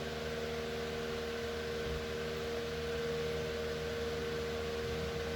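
Electric fan running steadily: an even whooshing noise with a steady hum.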